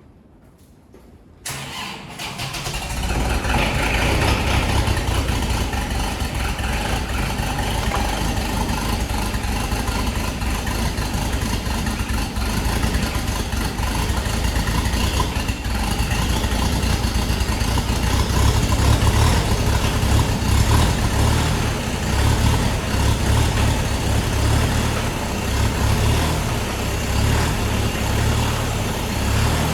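Kubota L5240 tractor's diesel engine cold-starting in sub-zero cold. The starter cranks it over slowly for a second or two before it catches and runs steadily. The owner puts the slow cranking partly down to the cold and partly to an original battery that is probably getting weak.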